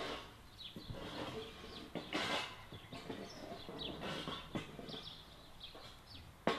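Small birds chirping repeatedly in short, falling chirps, with a brief louder burst of noise about two seconds in and a sharp click just before the end.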